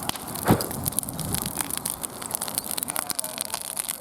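Wood bonfire crackling with many quick sharp pops, and one louder knock about half a second in.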